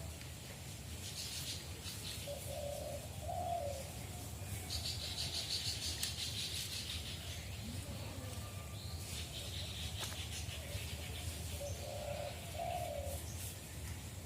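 A dove cooing, one short phrase a couple of seconds in and another near the end, with bursts of rustling hiss in between.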